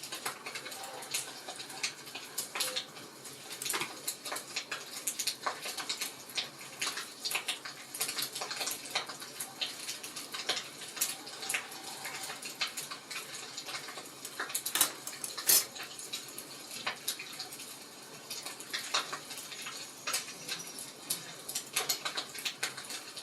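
Wood fire crackling: irregular sharp pops and snaps over a soft steady hiss, with one louder pop about fifteen seconds in.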